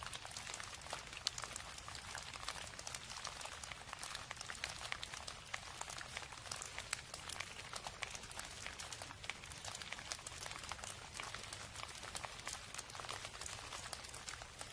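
Steady rain: a dense patter of many small drop ticks over a soft, even hiss.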